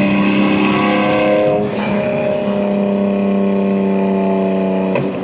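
BMW M2 G87's S58 twin-turbo inline-six engine and exhaust, fitted with catless downpipes and an equal-length mid pipe, running at a steady pitch while driving. The note dips briefly about a second and a half in and breaks again shortly near the end.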